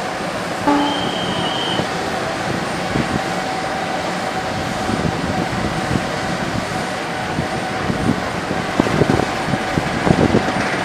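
Diesel-hauled container train rolling slowly past: a steady rumble of engine and wheels with a thin, continuous squealing tone over it, and a brief higher-pitched tone about a second in.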